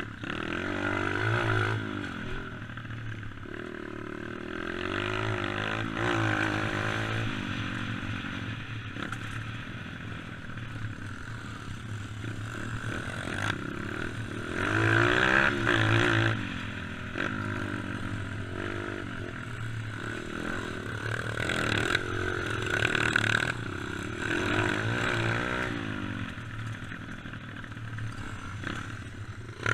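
Dirt bike engine running under way, its pitch climbing and dropping over and over as it is ridden, loudest about halfway through.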